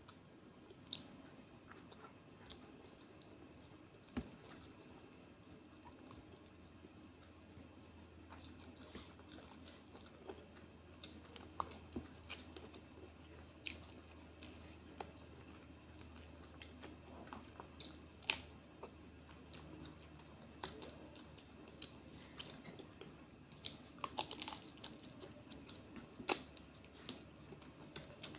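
Close-up chewing and mouth smacking of a person eating fried fish and rice by hand, with many short, sharp wet clicks scattered through.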